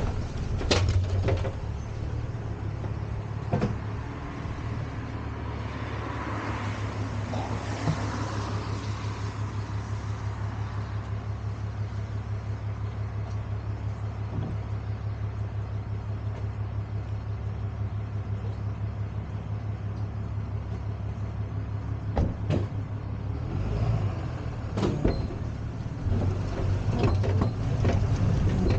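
Tow truck engine running steadily, with a few sharp clanks and knocks in the first seconds and again about three-quarters of the way through.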